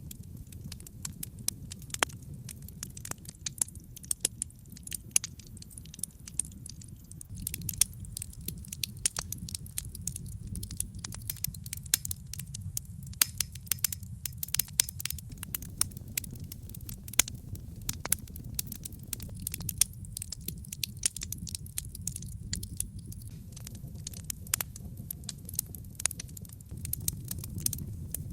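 Wood logs burning in a fireplace: a steady low rumble of flame under many sharp crackles and snaps, which come thicker after about seven seconds, with a few louder pops standing out.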